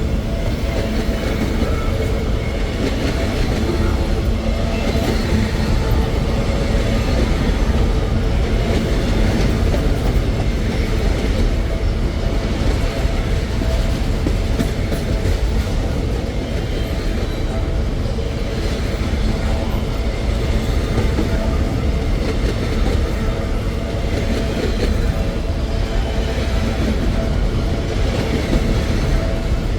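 Empty freight train rolling past, its wheels clattering over the rail joints in a steady, continuous run of clickety-clack.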